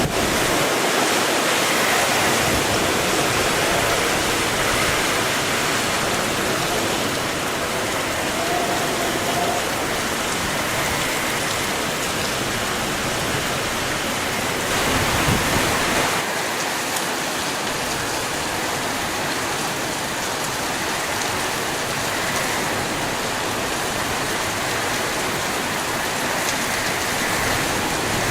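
Typhoon wind and heavy rain: a steady rushing noise that swells briefly about halfway through.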